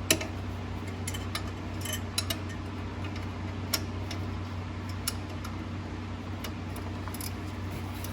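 Scattered light metallic clicks and clinks, at irregular intervals, of hand tools and parts being handled on a diesel engine's top end, over a steady low hum.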